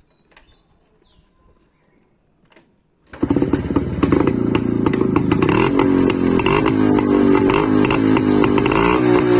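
Motorcycle exhaust, a Yezdi or a Royal Enfield Bullet, cutting in suddenly about three seconds in and running loud and steady, its pitch shifting a little with the throttle. Before it, faint bird chirps.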